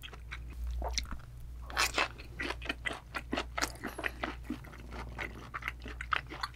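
Close-miked chewing of a mouthful of raw yellowtail (bangeo) sashimi: an irregular run of short, crunchy mouth clicks and smacks.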